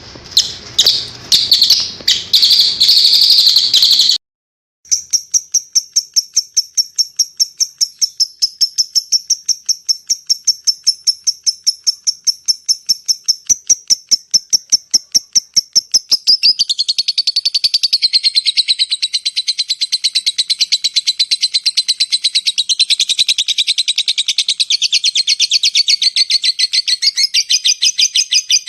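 Songbird song used as a masteran training recording. A few loud, harsh chirps cut off abruptly after about four seconds. After a short gap comes a long run of high, evenly repeated chirps at about five or six a second, which changes a little past halfway into a denser, lower-pitched trill.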